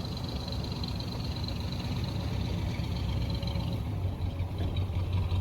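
1973 Chevy K20 truck's carbureted engine idling with a steady low rumble, running after sitting for about 20 years.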